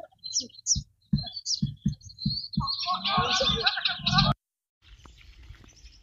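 Small birds chirping and twittering, thickening into a dense chorus about three seconds in, over a row of soft low thumps. The sound cuts off abruptly after about four seconds, leaving only a faint outdoor hiss.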